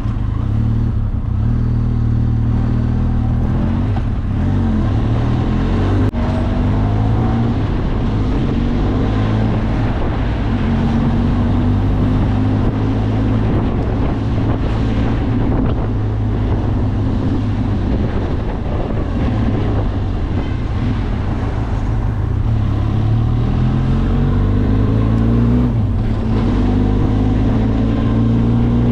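Benelli TRK 502X's parallel-twin engine running under way, its pitch climbing and dropping again several times as the bike accelerates and changes speed.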